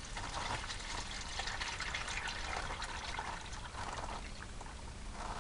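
Old engine oil pouring in a steady stream from the oil pan drain hole into a catch pan, with a continuous fluctuating splashing trickle.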